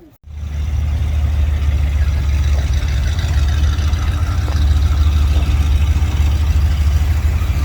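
Engine of the Mohs SafariKar, a car built on a 1969 International Travelall, idling with a steady low rumble. It comes in abruptly a fraction of a second in.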